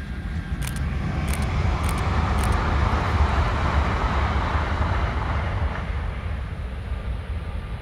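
923 series Doctor Yellow Shinkansen test train passing at speed on the viaduct: a rushing noise that swells, is loudest about four seconds in, then fades, over a steady low rumble.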